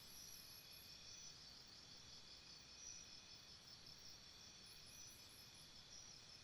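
Faint, steady jungle insect chorus: several high, cricket-like trills pulsing at slightly different pitches, layered over one another with a soft background hiss.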